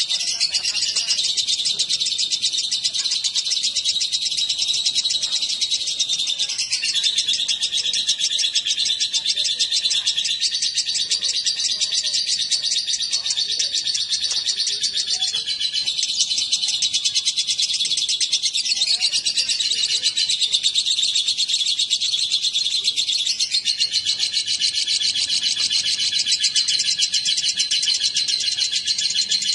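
Lovebird chattering in a long, unbroken trill of very fast, high-pitched chirps, its pitch shifting every few seconds.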